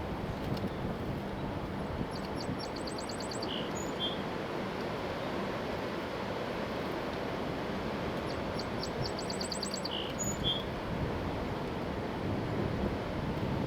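Wind blowing steadily, rumbling on the microphone, while a songbird sings the same short, rapid, high trilled phrase twice, a few seconds in and again about ten seconds in.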